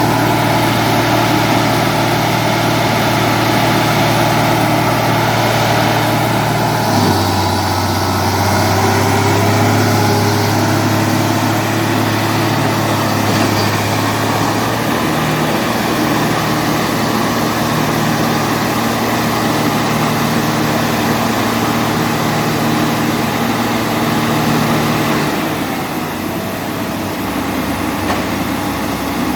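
Heavy earthmoving machine's diesel engine running steadily, its note shifting in pitch about seven seconds in, again around fifteen seconds, and once more near the end.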